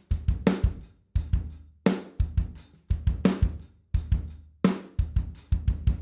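Recorded acoustic drum kit playing a steady kick-and-snare groove with hi-hat, the snare landing about every second and a half. It is heard through the close microphones blended with a far room microphone, which adds room ambience to the hits.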